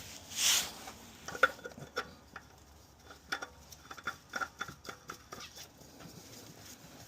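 Hand work on a spin-on oil filter: a short swish about half a second in, then a run of small irregular clicks, taps and light metallic clinks as the filter is handled and threaded on.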